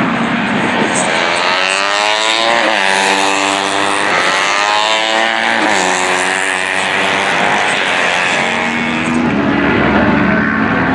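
Racing motorcycles at high revs passing on a circuit, their engine notes falling and climbing again twice as they go by and shift gears.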